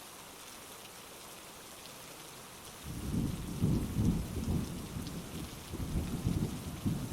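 Heavy rain hissing steadily. About three seconds in, a low rumble of rolling thunder starts and carries on, swelling and fading unevenly.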